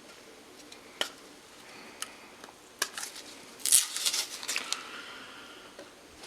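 Masking tape being peeled off a stainless steel exhaust tip as it is handled: a few sharp clicks and taps, then a short crackly rustle a little past the middle, which is the loudest sound.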